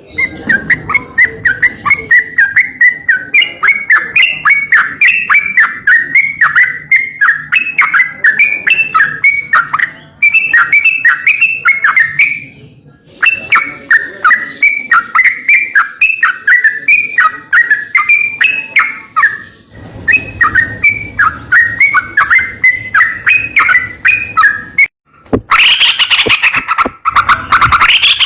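Crocokan songbird singing a long run of quick chirping notes, several a second, in phrases with short pauses between them. Near the end it breaks into a louder, harsher chatter.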